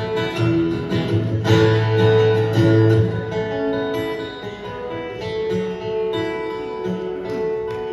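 Live band playing an instrumental outro led by strummed acoustic guitar, with sustained chords and a bass line and no singing.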